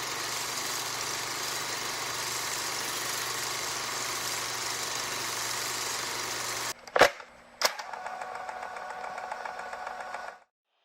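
A steady mechanical, engine-like hum that cuts off abruptly, then two sharp, loud bangs about half a second apart, followed by a quieter steady hum that stops dead into silence near the end.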